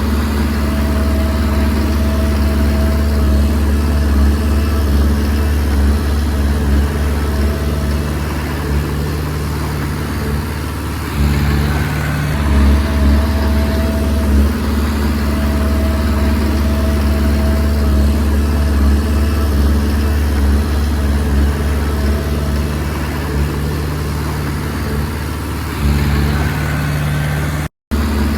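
Komatsu D20P crawler bulldozer's diesel engine running steadily at work, with a thin whine that comes and goes over the drone. The engine note eases briefly about ten seconds in and again near the end, and the sound cuts out for an instant just before the end.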